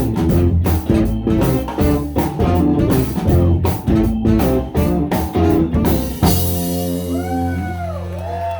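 Live blues-rock band with electric guitar and drum kit playing, ending about six seconds in with a cymbal crash and a long held final chord. Near the end, audience whoops rise over the ringing chord.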